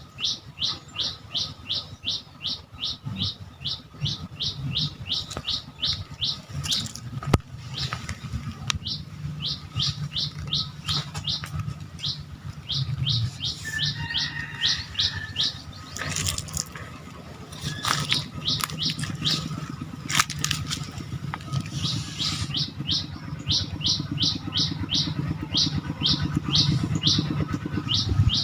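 A bird calling in long runs of short, high notes, each slurred downward, about three a second, with brief pauses between runs. A low rumble and a few sharp clicks run underneath.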